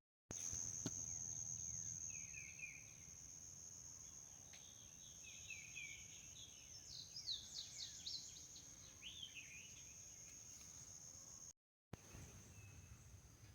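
Faint outdoor insect chorus: one steady, high-pitched buzzing trill runs throughout. Over it, songbirds give quick chirps and short sweeping calls, busiest between about two and ten seconds in. The sound drops out briefly twice, once right at the start and once about twelve seconds in.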